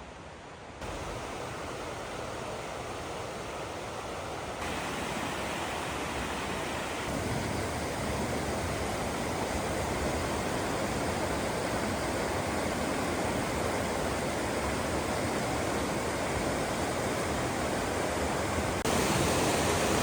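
Steady rushing water noise, with no distinct drops or splashes. It gets louder in a few sudden steps: about a second in, around five and seven seconds, and again near the end.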